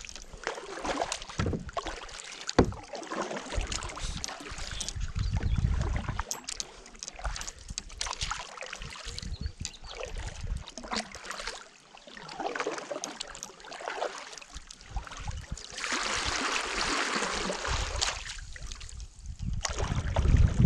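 Water splashing and sloshing around a kayak, with occasional sharp knocks on the hull and a louder rush of water noise a few seconds before the end.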